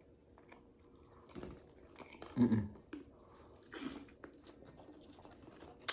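Close-miked eating sounds: chewing and smacking mouth noises, a few short bursts with quiet between them.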